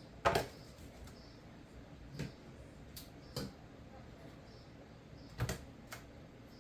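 A handful of short knocks and clicks from handling chicken pieces and seasoning in a baking pan. The loudest come just after the start and about five and a half seconds in.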